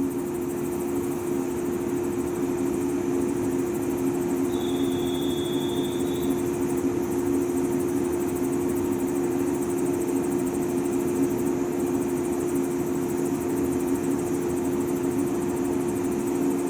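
JR 115 series electric train giving off a steady low hum over continuous running noise. A brief faint high tone sounds about four and a half seconds in.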